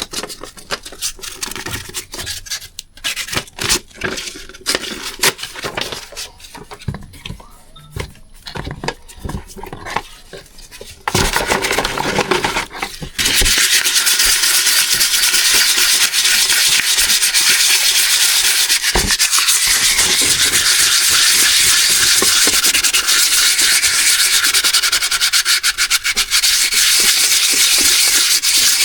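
Wet-and-dry abrasive paper rubbed by hand over engine parts to take off hard deposits. At first there are scattered scrapes and wipes, then from about a third of the way in the sanding runs on continuously and steadily.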